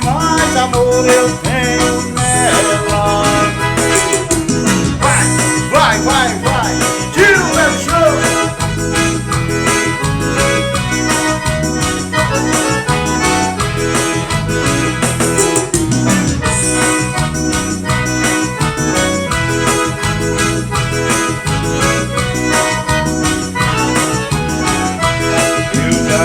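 Forró band playing an instrumental passage, an accordion leading the melody over a steady beat.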